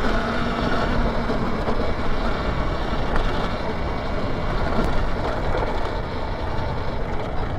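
Steady rumbling wind and tyre noise while riding an Alta electric dirt bike, with no combustion engine note, since the electric motor runs quiet.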